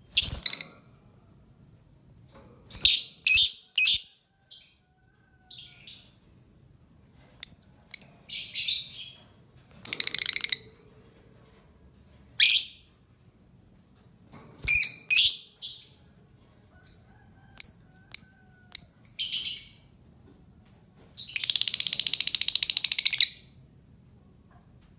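Songbird lure calls: short, sharp, high chirps and call phrases come in separate bursts a second or two apart. Near the end a rapid buzzy trill lasts about two seconds. This is a lure call of the kind played to draw birds in for trapping.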